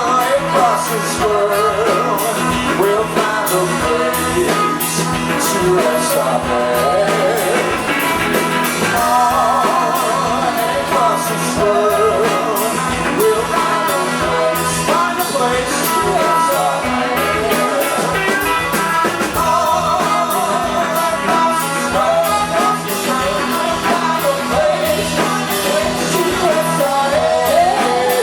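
Rock band playing live: electric guitars and a rhythm section, with a singing voice over them.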